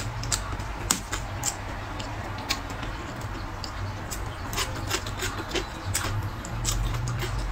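Close-up eating sounds from someone chewing braised pork and blistered green peppers: irregular mouth clicks and smacks, with the odd chopstick tap, over a low steady hum.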